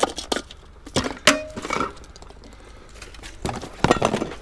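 Hard knocks and clinks of appliances and metal scrap being handled in a pile, about six in all. One strike about a second in rings briefly with a metallic tone.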